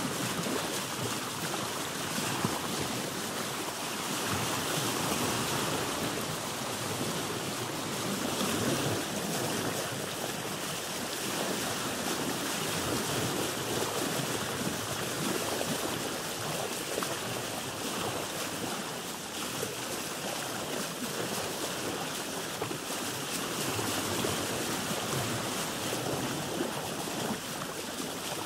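Sea water lapping and splashing against the hull of a boat, a steady wash with gentle swells in loudness every few seconds.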